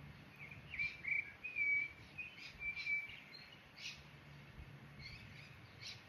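Small birds chirping and twittering in short, high notes, a quick run of calls in the first three seconds and a few scattered chirps after, over faint outdoor background noise.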